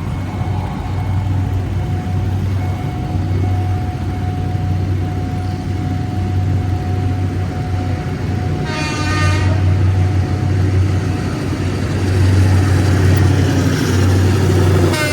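Train horn sounding one blast of about a second, roughly nine seconds in, and starting again at the very end, over a steady low engine rumble and a thin, steady high tone.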